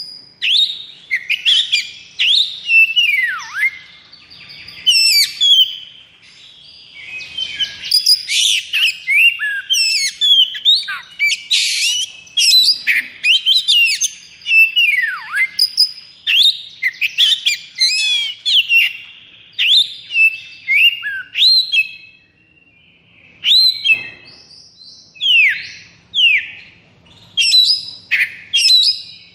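Oriental magpie-robin (kacer) singing a fast, nonstop 'konslet' song, the kind a highly roused bird gives. It runs through whistles, sharp falling notes and buzzy trills with hardly a pause, easing off for a moment about two-thirds of the way in.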